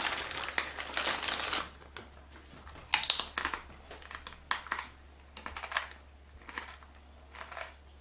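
A guitar chord rings away in the first second or so, then soft, scattered rustles and taps, about half a dozen, over a steady low electrical hum.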